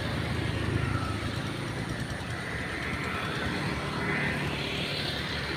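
Tractor engine running steadily while plowing a rice paddy, a low even drone.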